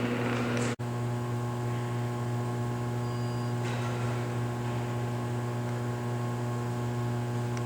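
Ney Vulcan 3-130 furnace running at full heat, its energized heating elements giving a steady electrical mains hum with several overtones. The sound drops out for an instant under a second in.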